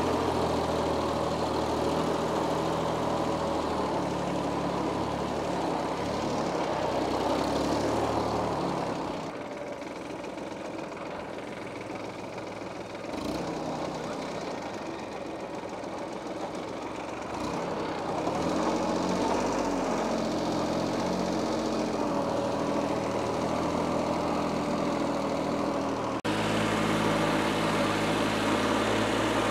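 Diesel engine running steadily. It drops quieter about a third of the way in, grows louder again past halfway, and changes abruptly near the end.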